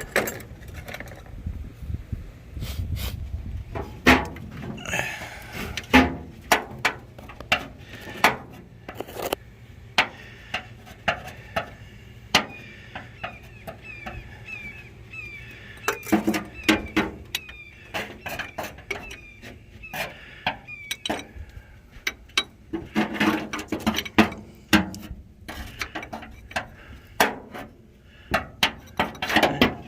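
Hand wrenches clinking and knocking against metal while being fitted to the starter mounting nut of a 1952 Chevrolet truck, in short irregular taps. A run of faint, evenly spaced high chirps comes in the middle.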